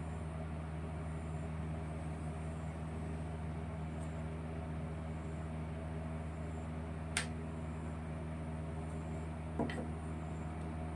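A steady low mechanical hum runs throughout. Two sharp clicks or taps stand out above it, one about seven seconds in and one near ten seconds.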